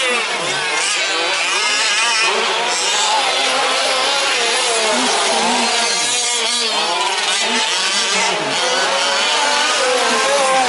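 Several 1/5-scale RC trucks racing, their small two-stroke petrol engines revving up and down over one another, with no break.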